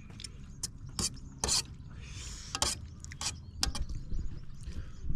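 Irregular sharp clicks and crackles, about a dozen, with a brief rustle about two seconds in.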